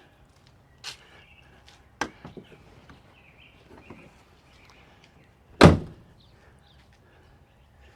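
A few separate knocks in a garage: a sharp knock about a second in, another about two seconds in followed by a short clatter, then one much louder, heavy thump like a door slam about five and a half seconds in.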